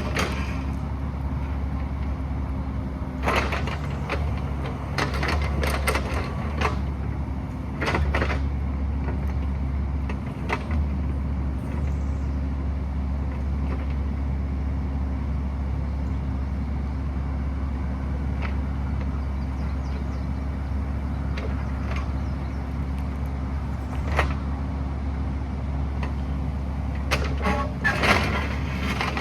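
Excavator diesel engine running steadily under work, with intermittent clanks and scrapes as the bucket works rock, including a cluster of clatters near the end.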